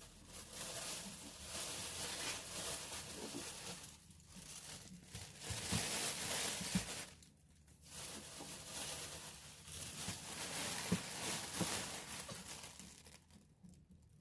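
Rustling and crinkling of bags or food wrapping being handled, in three spells with short pauses between, with a few soft knocks.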